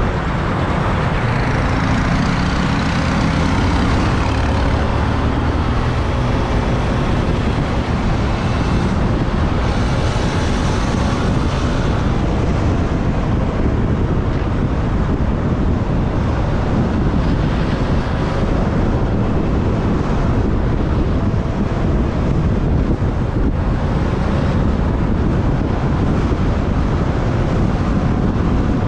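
Motorbike riding through city traffic: its engine running under a steady, loud rush of road noise, with the pitch drifting up and down as it speeds up and slows.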